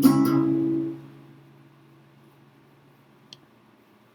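Closing chord of a sung folk ballad strummed on an acoustic guitar and left to ring, dying away over about a second to a faint tail. A small click near the end.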